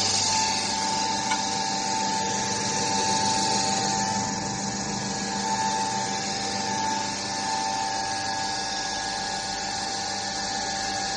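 Floating fish-feed pellet extruder running steadily, its motor giving a constant high whine over a rushing mechanical hiss.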